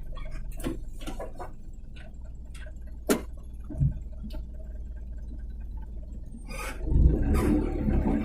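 Truck engine idling low, with scattered sharp clicks and knocks; the engine noise swells near the end.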